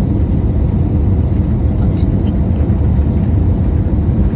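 Steady low rumble of an Airbus A320 cabin in flight on approach, unchanging throughout.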